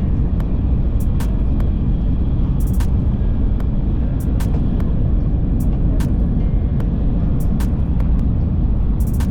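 Shinkansen bullet train running at speed: a steady low rumble with frequent short, sharp clicks scattered through it.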